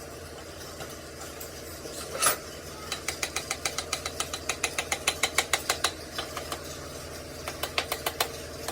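Rapid light tapping or clicking on metal, about five strikes a second, in two runs after a single sharper knock, over a steady machine hum.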